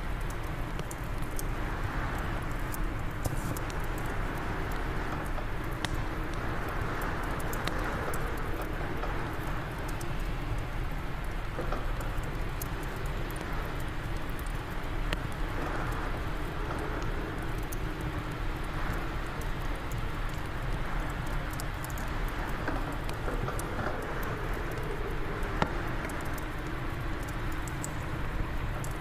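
Fireplace fire crackling with scattered sharp pops, over a steady rush of wind that swells and eases every few seconds.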